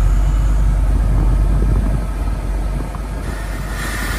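1980 Camaro Z28's rebuilt 350 V8 idling with a steady low rumble, heard from inside the cabin. It eases a little about two seconds in, and a hiss comes in about three seconds in.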